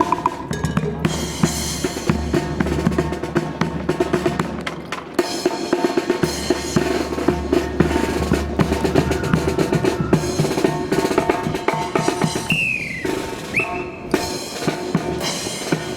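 Marching band drum section playing, with snare drum rolls and bass drum strokes in a fast, busy rhythm. A brief pitched sweep cuts through about twelve and a half seconds in.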